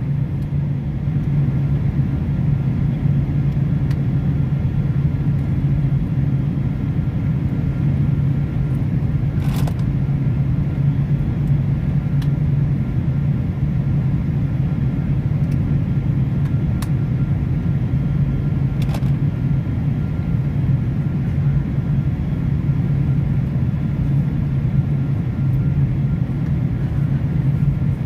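Airliner landing: a steady, unchanging low rumble and drone, with a few faint clicks along the way.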